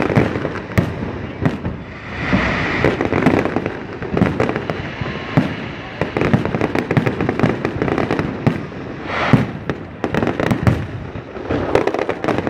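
Fireworks display: a dense, irregular run of bangs and crackling pops, many going off in quick succession.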